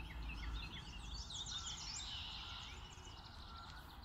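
Birds chirping in the background: a run of short high chirps with quick twittering trills, over a faint hiss.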